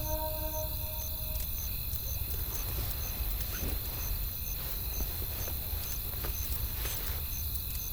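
Wood fire crackling, with irregular snaps and pops over a steady low rumble, as the last sustained music notes fade out about a second in.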